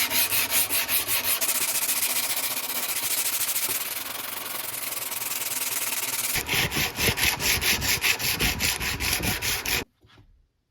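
Hand sanding with quick back-and-forth strokes: about five strokes a second, then a faster, denser stretch, then slower heavier strokes again. It stops abruptly near the end.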